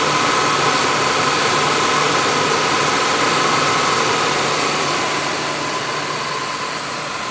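Lincoln Town Car stretch limousine's V8 engine idling, heard close to the front grille: a steady running noise with a faint constant whine. It gets a little fainter in the second half.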